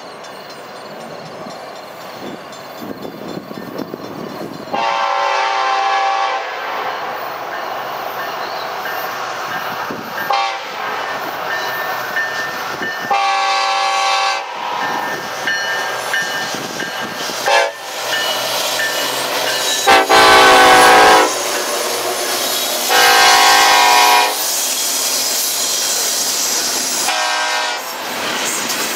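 Norfolk Southern diesel freight locomotive sounding its horn in several long blasts as it approaches a grade crossing; the blast about twenty seconds in is the loudest. Underneath, the train rumbles and its wheels clack as the hopper cars roll past, growing louder through the second half.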